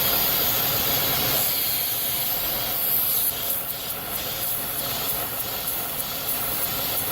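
3.6-litre V6 idling fast with a steady hiss of air being sucked in through a split PCV valve hose, a vacuum leak that causes the high idle and code P0507. The hiss shifts and drops a little about three seconds in.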